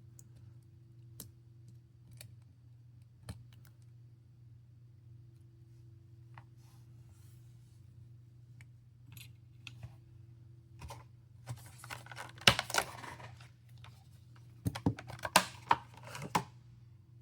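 Small metal tools clicking and scraping against a smartphone's internal parts and screws during disassembly. There are scattered single ticks at first, then two denser flurries of clicks and scratches in the second half, over a faint steady hum.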